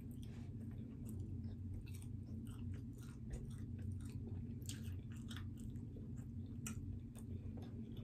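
A person chewing a mouthful of pepperoni pizza: irregular small wet mouth clicks, over a steady low hum.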